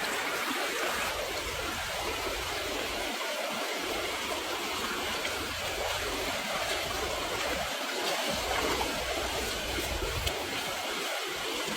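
Steady rushing noise, like running water, with an uneven low rumble underneath.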